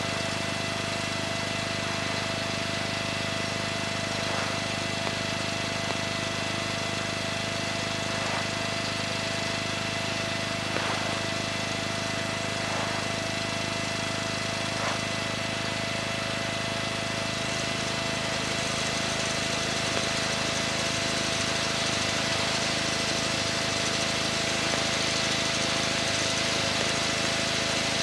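Steady drone of a light aircraft's piston engine and propeller inside the cockpit, with steady high tones over it; the low part of the engine note shifts slightly about two-thirds of the way through.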